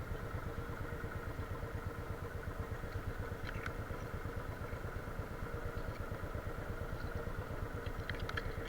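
Motorcycle engine running with a steady, even low putter, with a few light clicks about three and a half seconds in and again near the end.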